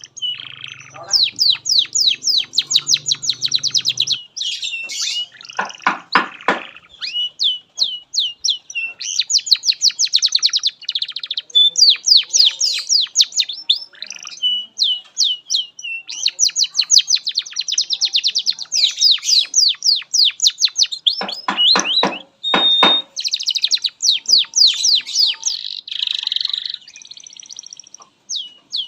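Domestic canary singing a long, unbroken song of fast trills of rapidly repeated high notes, one phrase running into the next. Twice, about six seconds in and again past twenty seconds, it drops into a short, lower buzzing rattle.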